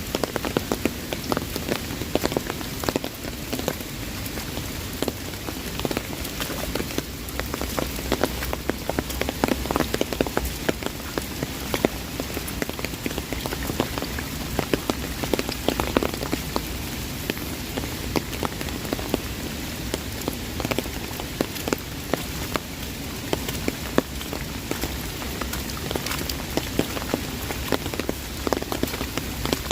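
Heavy rain falling on an umbrella overhead: a dense, steady patter of drops striking the canopy over the hiss of the downpour all around.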